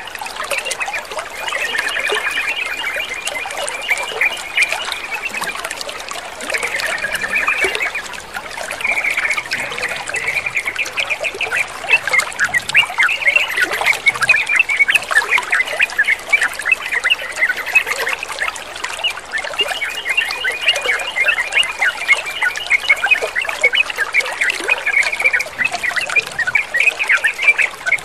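Sooty-headed bulbul chattering and warbling in fast, continuous phrases over trickling water. The calls become busier from about the middle on.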